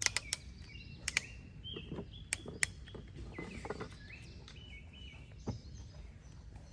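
A bird singing short whistled phrases that step up and down in pitch, with several sharp clicks or knocks, the loudest near the start and around one and two and a half seconds in.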